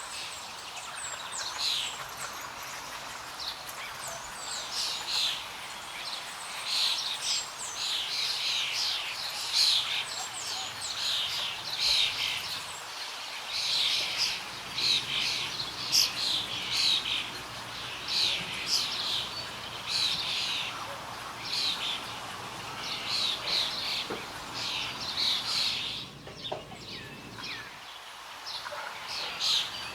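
Small birds singing, with dense runs of short, high chirps and twitters that repeat over and over, and a short break in the song near the end.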